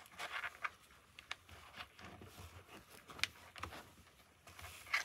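Light clicks and scraping of plastic parts being handled as an intercom boom microphone is pushed into a narrow gap in a motorcycle helmet, with a few sharper clicks scattered through it.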